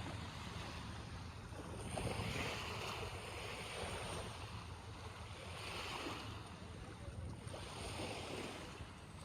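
Small sea waves washing in, their hiss swelling about every two seconds, with wind rumbling on the microphone.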